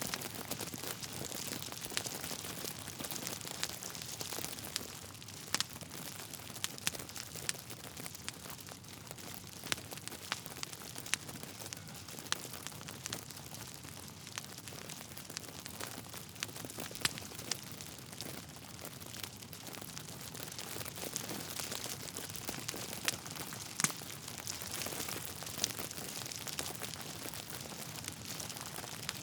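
Wood fire burning in a fireplace: a steady hiss of crackling logs with frequent sharp pops, a few of them louder than the rest.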